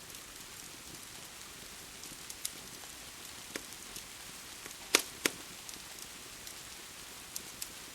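Wood fire crackling: scattered sharp pops and snaps, the two loudest close together about five seconds in, over a steady hiss of rain.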